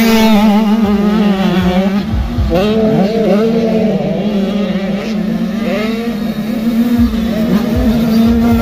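Several motocross bikes revving on a dirt track, their engine notes rising and falling over and over as riders work the throttle and shift, over a steady low drone.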